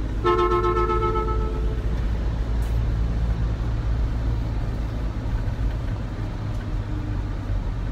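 A vehicle horn sounds once, a steady two-note toot lasting about a second and a half, over the steady low rumble of a motor vehicle running.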